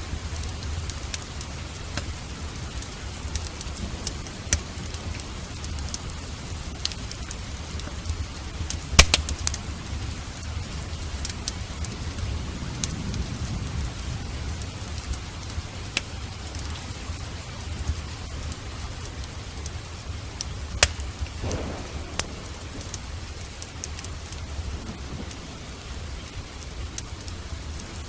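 Steady rain with a wood fire crackling over it, the loudest pops about 9 and 21 seconds in, and a low rumble of distant thunder underneath.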